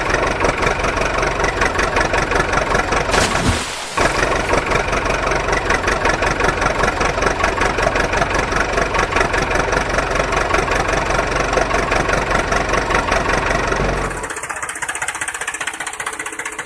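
An engine running with a fast, even chugging beat. It breaks off briefly a little past three seconds, and near the end it gets quieter and thinner.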